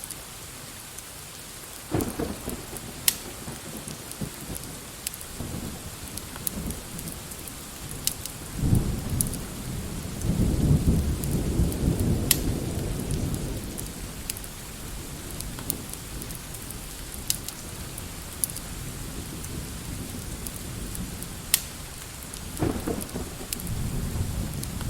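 Steady rain with rolling thunder: a short rumble about two seconds in, a long loud one from about nine to fourteen seconds, and another starting near the end. Scattered sharp crackles sound throughout.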